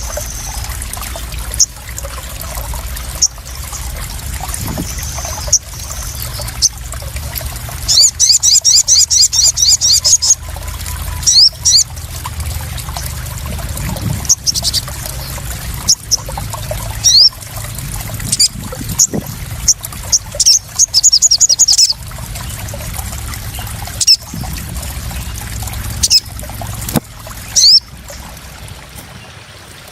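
Water trickling and splashing steadily, with a small bird's short, high, thin chirps over it. The bird breaks into a fast trill about eight seconds in and again about twenty seconds in. The bird is a sogon (sunbird).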